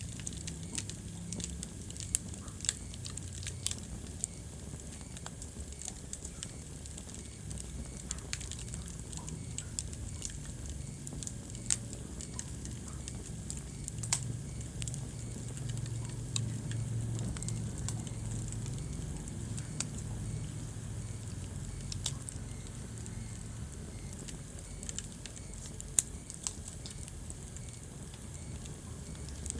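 Wood fire burning in a fireplace, crackling with sharp pops every few seconds over a steady low rumble.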